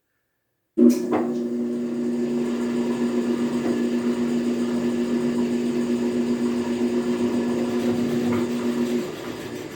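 Electric motor of a metal planer switched on with a click about a second in and running with a steady hum, then switched off near the end, the hum stopping and the machine noise dying down.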